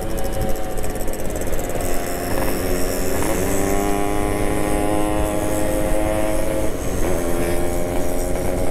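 Yamaha RX-King two-stroke single-cylinder motorcycle engine running at a steady cruise, its note shifting in pitch about three seconds in.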